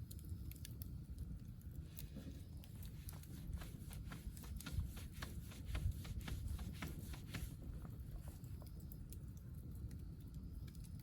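Wood fire crackling, with sharp snaps coming thickest from about two seconds in until about seven and a half seconds, over a low rumble.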